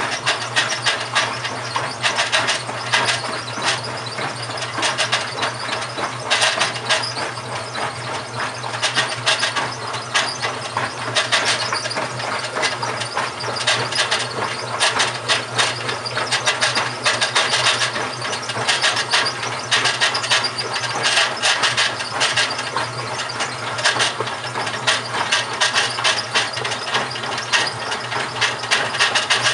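GE washing machine (model WHDSR315DWW) running with a continuous grinding, scraping noise over a steady motor hum, which the owner suspects may be a failing transmission.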